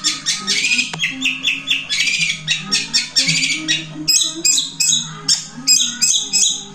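Long-tailed shrike (cendet) singing a fast, unbroken string of sharp, squawky repeated notes, several a second, switching to a different, higher phrase about four seconds in.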